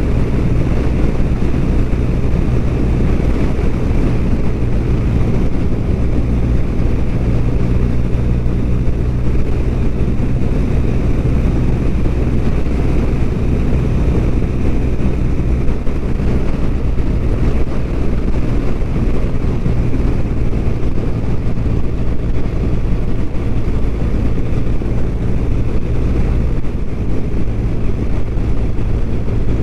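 BMW R1200RT's flat-twin engine running steadily at cruising speed, with wind noise on the microphone.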